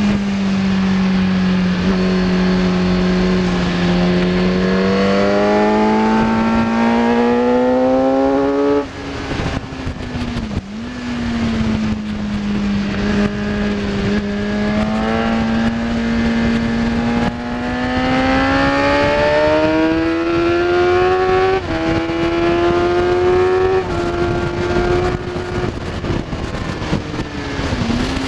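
Kawasaki ZX10R sportbike's inline-four engine at track speed. The revs rise steadily for about nine seconds, then drop sharply as the throttle closes. They hold and climb again, with a few sudden changes in pitch later on.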